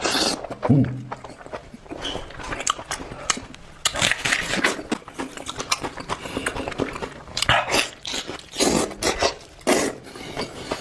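Close-miked eating: a person biting and chewing food, many short wet clicking sounds with a few longer noisy stretches.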